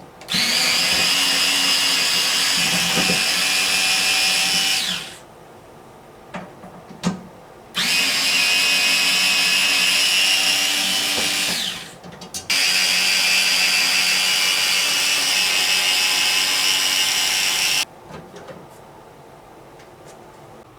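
Electric screwdriver running in three long runs of several seconds each, driving or backing out screws. The first two runs wind down and the last cuts off suddenly.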